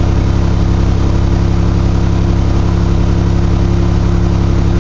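1982 GMC S-15's carbureted 2.8 V6 running steadily at fast idle on the choke during a cold warm-up. It runs loud, which the owner puts down to a crack in one of the exhaust manifolds.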